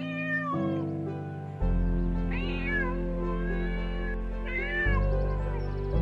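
A domestic cat meowing three times, each call arching in pitch, over background music with slow sustained chords.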